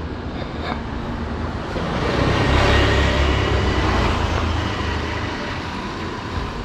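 Road traffic heard from a moving motorcycle: a steady rumble of engines and road noise that swells louder about two to four seconds in, then eases off.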